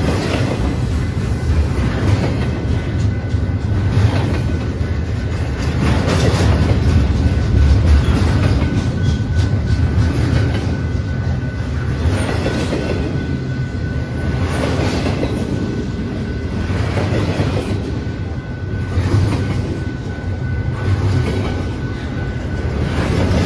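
Double-stack intermodal well cars rolling past at close range: a steady rumble of steel wheels on rail with a rhythmic clickety-clack that swells every two seconds or so, over a faint steady high tone.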